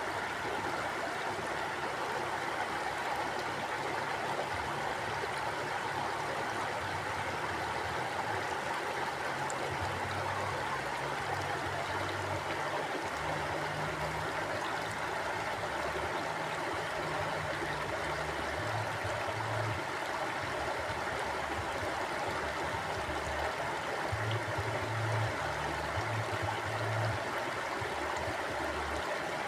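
Flowing stream water rushing steadily, with a low rumble underneath that swells and fades, strongest about halfway through and again near the end.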